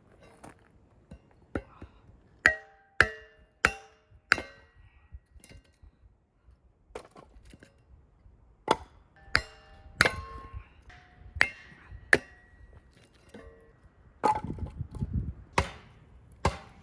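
Chopping blows on wood, irregular and about a second apart, several of them ringing briefly. There is a stretch of rustling near the end.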